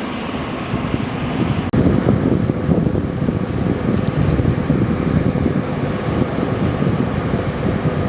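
Wind buffeting the microphone: a loud, shifting low rumble that gets louder about two seconds in, over a faint steady hum.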